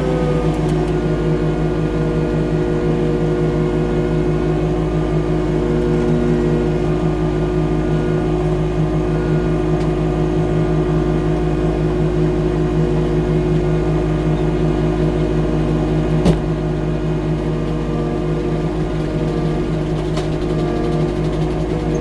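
Engine of a 6-ton tracked skid steer loader running at a steady speed, with one sharp knock about sixteen seconds in.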